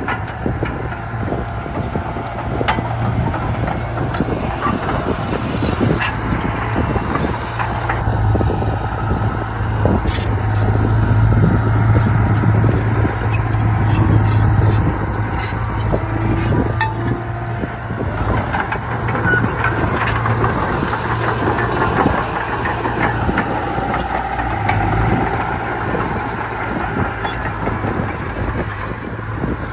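Heavy diesel earthmoving machinery running steadily, with a low engine drone that swells about ten seconds in and scattered metallic clanks and squeaks throughout.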